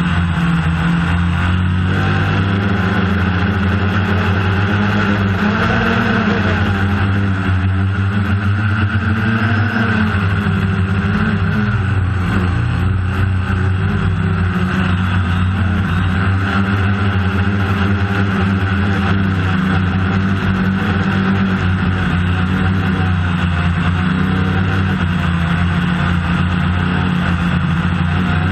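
DJI Phantom quadcopter's electric motors and propellers running steadily in flight, heard close up from the drone's own camera as a loud hum whose pitch wavers slowly up and down as the motors adjust speed.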